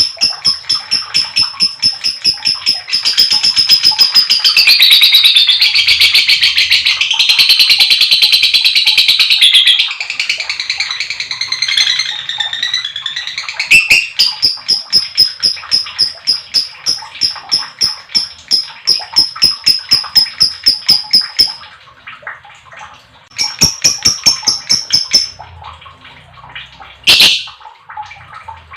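Lovebird 'ngekek panjang': a long, unbroken chattering trill of fast, evenly repeated high notes. It grows denser and louder for several seconds near the start, breaks off about two-thirds of the way through, returns briefly, and ends with two single sharp calls.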